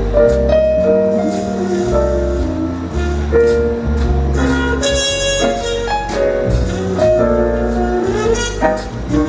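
Live small jazz band playing: tenor saxophone over piano, bass and drums, with steady cymbal hits.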